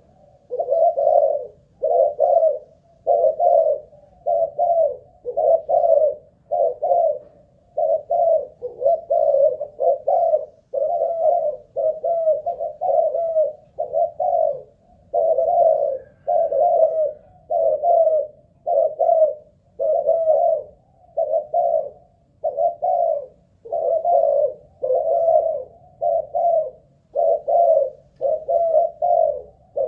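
Malaysian-strain spotted dove cooing over and over in an unbroken string of short coo phrases, without a real pause. This is the sustained cooing ('nước bền', staying power) wanted in a decoy dove.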